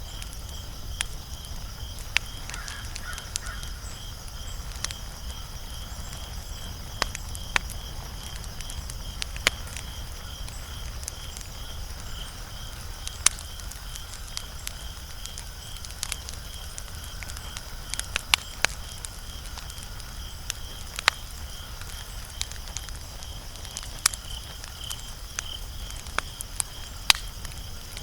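Wood fire crackling, with sharp irregular pops over a low steady rumble. A high, evenly pulsing call runs behind it at about two a second.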